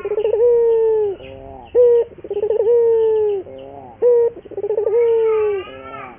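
Puter (Barbary) dove cooing repeatedly, persistent and in full song. Each coo is a short note and a quavering run, followed by a long held note that sags slightly in pitch, about three times over. Faint higher chirps are heard behind it.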